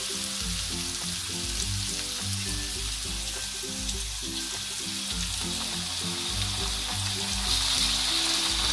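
Sliced shallots and garlic sizzling in hot oil in a wok, the sizzle growing stronger near the end. Background music with a melody and a bass line plays over it.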